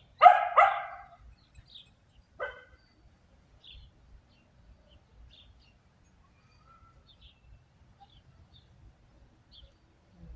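A dog barking twice in quick succession, then once more about two seconds later. Faint bird chirps follow.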